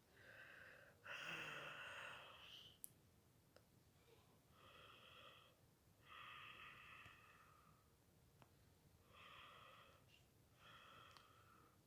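A cartoon character's faint sleep breathing: a few soft breaths in and out, the later ones coming in pairs.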